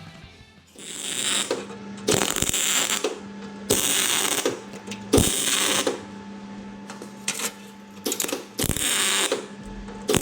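Welder laying short tack welds on scrap steel: a string of crackling bursts, each about half a second to a second long, over a steady low hum.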